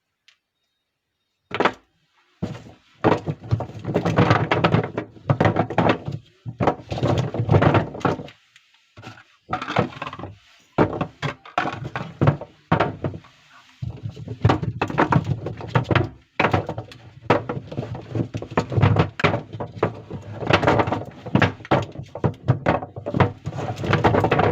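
Soap bars being unpacked by hand: packaging rustling and crackling in dense, irregular bouts with short pauses, and occasional thunks as soap is handled. It starts about a second and a half in, after near silence.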